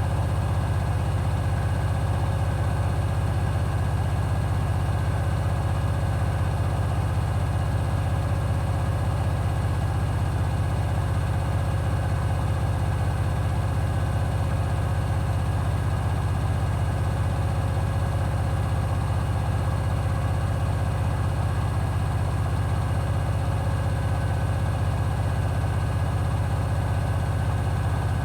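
Hoover HW411AMC washing machine in its final spin, the drum turning at a steady high speed with a constant low hum and a few faint steady higher tones.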